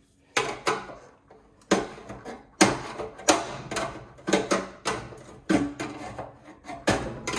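Sheet-steel housing of a gas instant water heater being worked apart by hand. It gives an irregular series of sharp metal knocks and clanks, about two a second, as the pressed, crimped edges are knocked and bent free.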